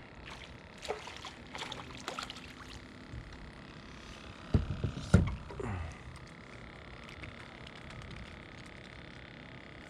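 Fishing gear knocking on a kayak: a few light clicks, then two loud hollow thumps about halfway, over a faint steady background.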